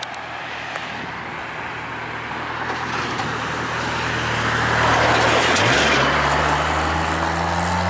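A car driving past on the street: tyre and road noise grows louder, peaking about five seconds in, while its engine hum rises in pitch as it speeds up.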